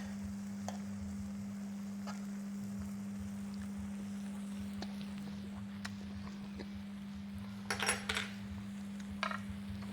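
A steady low hum with a few faint utensil clicks, and a short clatter of a utensil against a pan or dish about eight seconds in.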